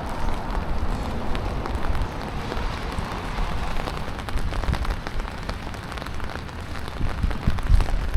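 Rain falling on a city street, many small drop ticks over a steady hiss, with a low rumble underneath that grows louder near the end.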